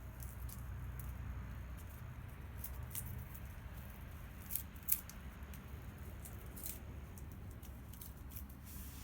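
Bonfire crackling, with irregular small snaps and two louder pops about halfway through, over a low steady rumble.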